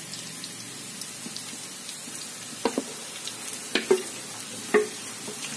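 Grated carrots dropping into hot desi ghee in a kadhai, with a light steady sizzle. Near the middle come a few sharp knocks, two pairs and then a single one, from the steel plate being tapped against the pan to shake the last carrots off.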